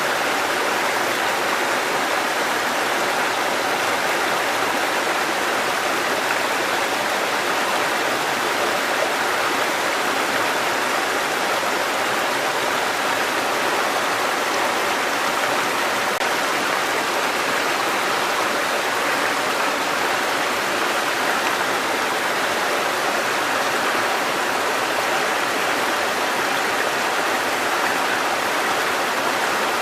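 Water cascading over rocks in a mountain stream: a steady, unbroken rushing, brightest in the middle of the range.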